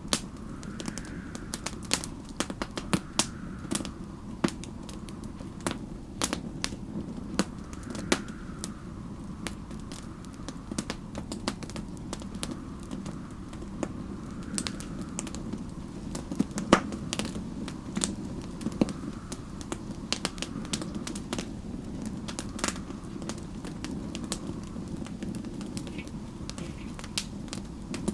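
Wood fire crackling, with many sharp pops and snaps over a steady low rumble. Behind it, a soft wind whistle from a snowstorm rises and falls every several seconds.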